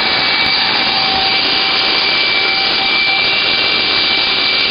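Small Hoover vacuum cleaner running steadily at full speed: a loud, even rush of air with a steady high motor whine, its suction restored now that the mud has been cleared out of it.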